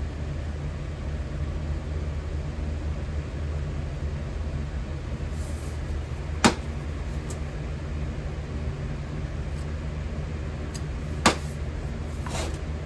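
Metal-melting furnace running with a steady low hum. Two sharp clicks break through, one about halfway and one near the end.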